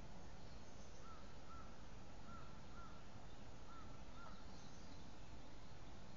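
A bird calling in a run of about six short, arched notes, roughly two a second, that stops after about four seconds. Faint higher chirps and a steady background hiss run underneath.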